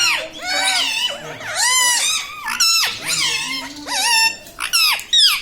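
Ringneck parrot calling over and over, a run of short, high squawks that each rise and fall in pitch.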